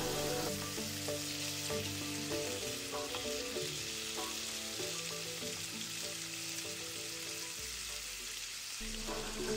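Diced cured pork sizzling as it fries in fat in a hot non-stick pan, a steady hiss, stirred with a wooden spatula.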